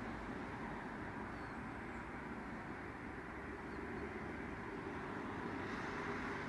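Steady rumble of distant road traffic, an even noise without distinct events.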